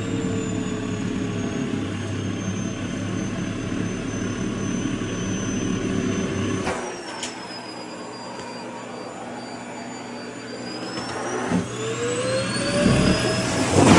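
Vacuum cleaner motor running with a steady whine that slowly sinks in pitch. About halfway through a click is followed by a drop in loudness and a lower, falling whine. Near the end the whine climbs again as the motor speeds back up.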